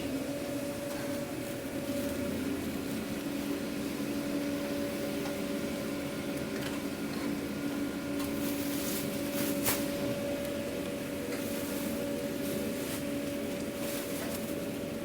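Steady mechanical hum of food-truck kitchen machinery running, with a constant pitched drone and a few light clicks about six and ten seconds in.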